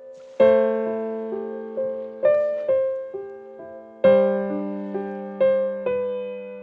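Slow solo piano music: a chord about half a second in, then single notes roughly every half second letting each ring and fade, and a second chord about four seconds in.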